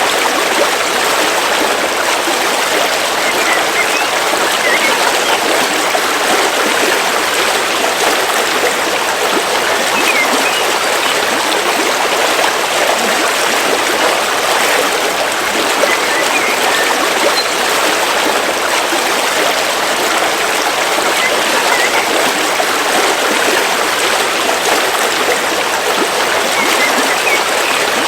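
River water flowing steadily over rocks, an even rushing and babbling, with a few faint short bird chirps now and then.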